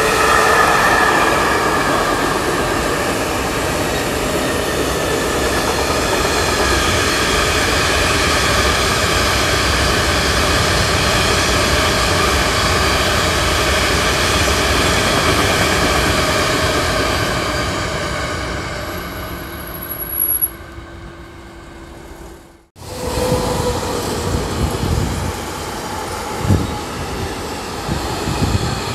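Electric freight train rolling past close by: a steady rolling rumble of tank and hopper wagons on the rails, with ringing tones from the wheels that dip in pitch at the start as the locomotive goes by, fading away after about 18 seconds. Near the end, after a sudden cut, another train of tank wagons rolls past with a few knocks from the wheels.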